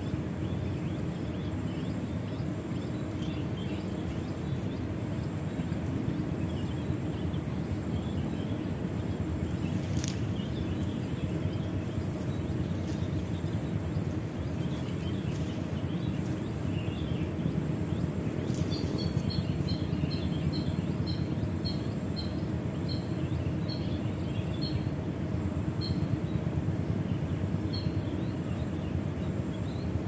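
Grassland field ambience: a steady low background rumble with scattered faint bird chirps and a faint steady high tone. About two-thirds through, a bird starts a run of short high pips, about two a second, spacing out toward the end.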